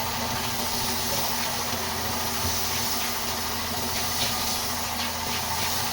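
A steady, even hiss with a faint machine hum under it, unbroken throughout.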